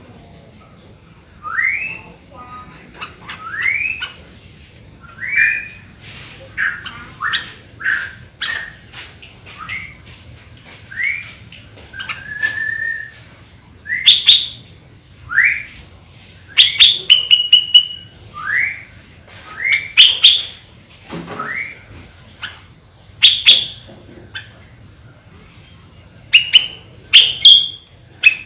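Sooty-headed bulbul singing: a run of short, loud, rising whistled notes, one every second or two, with sharp chip notes in between.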